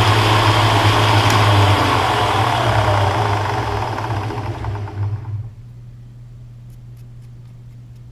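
Milling machine cutting with an end mill: a loud, harsh chatter over the steady hum of the machine's motor, the sign of a long end mill sticking out too far. The cutting noise dies away about five seconds in, leaving only the motor running.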